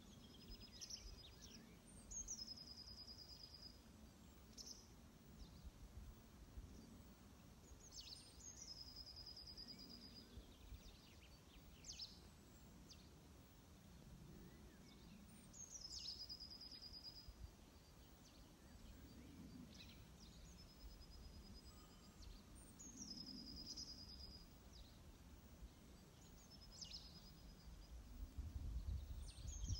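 Near-silent outdoor ambience with a songbird singing the same short phrase about every six or seven seconds: a quick downward sweep, then a rapid high trill held at one pitch.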